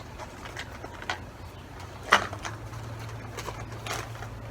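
A few separate knocks and rustles of small nature items and a plastic water bottle being handled, the loudest a sharp knock about two seconds in, over a low steady hum.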